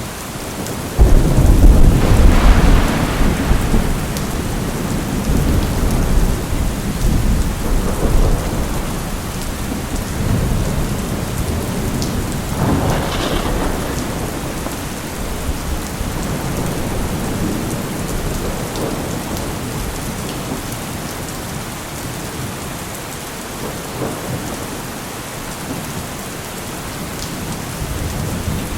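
Thunderstorm: steady rain with thunder. A sudden loud thunderclap about a second in rolls away over several seconds, another roll of thunder comes about halfway through, and a fresh rumble builds near the end.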